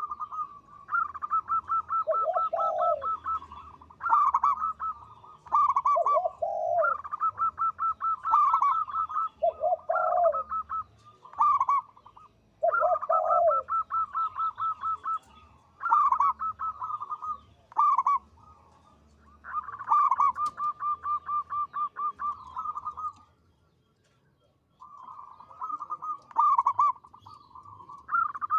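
Zebra dove (perkutut) cooing: a fast, rapidly pulsed trill that comes again and again in phrases, with deeper, slurred notes between some of them. There is a short break about four-fifths of the way in.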